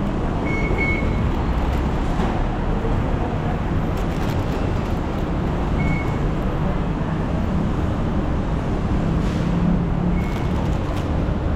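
Steady rumble of road traffic and busy station noise, with short high-pitched beeps about half a second in, again near six seconds, and near the end.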